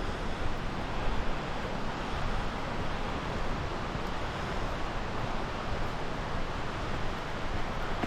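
Steady outdoor rushing noise, even and unbroken, with no distinct events: running water or wind on the microphone.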